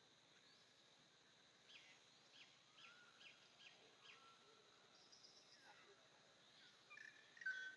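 Faint wild birdsong: a run of about six quick falling chirps in the first half, then a louder call with a held note near the end, over a faint steady high-pitched tone.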